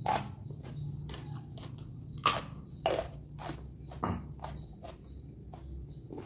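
A person chewing and biting crunchy raw lalapan: irregular wet crunches a few times a second, with two louder crunching bites at about two and three seconds in.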